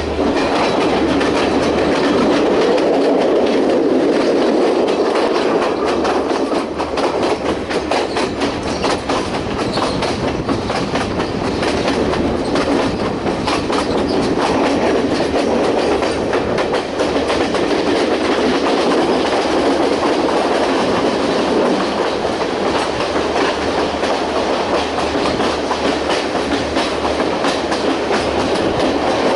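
Passenger train carriage running along the track: a steady rumble with wheels clattering continuously over the rails.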